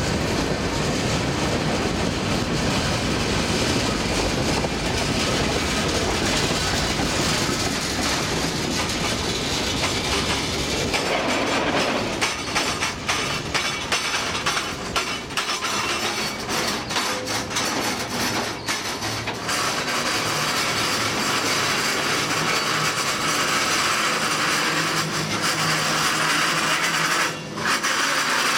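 CN diesel freight locomotives moving on the rails. A heavy engine rumble fills the first ten seconds or so, then about seven seconds of rapid clicks and knocks from wheels over the track, then a steady hiss with a faint low hum.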